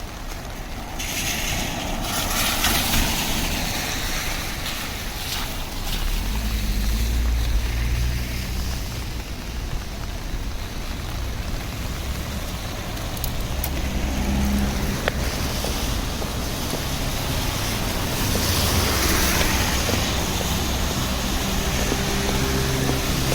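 Traffic on a wet city street in the rain: cars going by, their engines and tyres rising and falling over a steady hiss.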